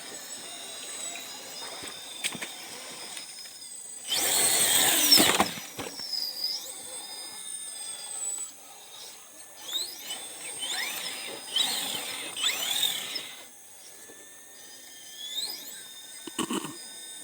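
High electric whine of an RC rock crawler's motor and gear train, rising and falling with throttle, with a loud rushing burst about four seconds in and more bursts near the end.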